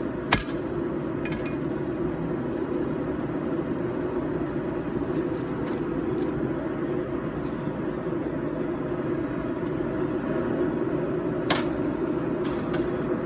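Gas forge burner running with a steady rushing noise. A sharp metal strike comes just after the start, and another clink about eleven and a half seconds in.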